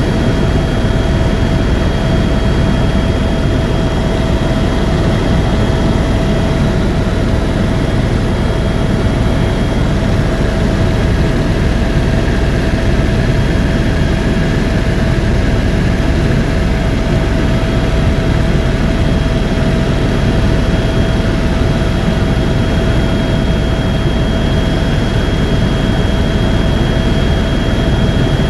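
Tour helicopter in flight, heard on board: loud, steady rotor and turbine noise with a constant high whine and no change in pitch.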